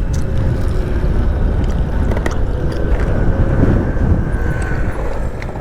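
Wind rushing over the microphone while riding, with a small scooter engine running steadily underneath.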